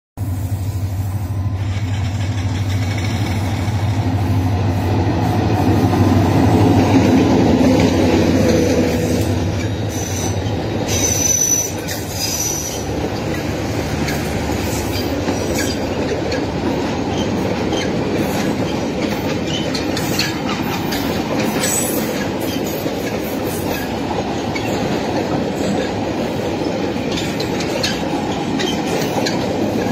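A diesel-hauled train passing close by. A locomotive engine drones for the first ten seconds or so. Then the coaches and loaded flat wagons roll past with a steady rumble and the clickety-clack of wheels over rail joints, with brief wheel squeal a little after ten seconds.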